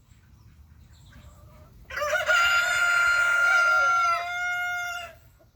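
A rooster crowing once: one long call of about three seconds, starting about two seconds in, held mostly level before dropping slightly near its end.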